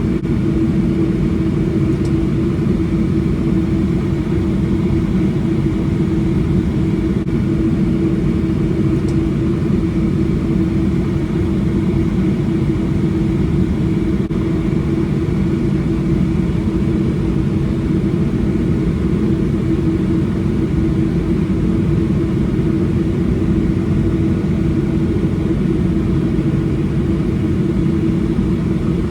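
Cabin noise aboard a Boeing 737-800: a steady drone from its CFM56 engines and airflow, with a steady hum over the rumble and no change in pitch or level.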